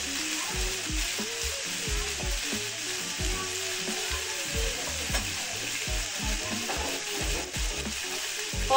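Tofu cubes and sliced onions sizzling as they fry in a pan, a steady hiss.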